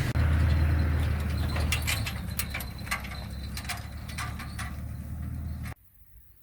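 Mitsubishi Pajero driving on a rough, wet track: a steady low engine and road rumble with a quick run of clicks and knocks over the middle seconds. It stops abruptly near the end.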